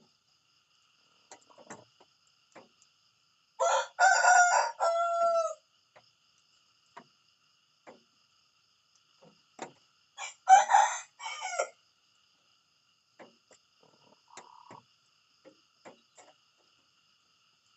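Rooster crowing twice: a long crow about four seconds in that ends on a falling note, and a shorter one near the middle.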